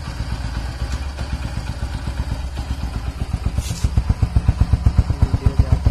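Hero Honda CD100's air-cooled single-cylinder four-stroke engine idling with an even exhaust beat of about seven pulses a second, just after an engine oil change. The speaker calls it smooth. The beat grows louder and more distinct about four seconds in.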